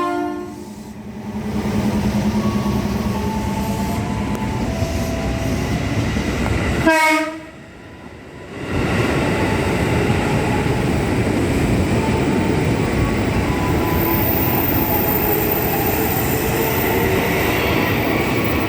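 Electric commuter train pulling out and running along the platform, with a steady rumble and clatter of wheels on rail. A short horn blast sounds about seven seconds in.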